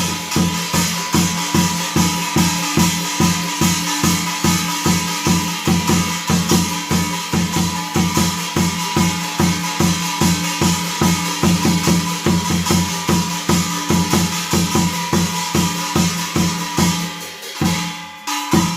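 Korean shamanic gut ritual music. A barrel drum (buk) is beaten in a fast, even rhythm of about four strokes a second, under a held reed-pipe (piri) line and a jingling shimmer. The music thins out near the end.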